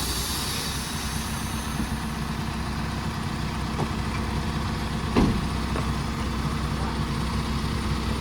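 Truck's diesel engine running steadily, with one sharp knock about five seconds in.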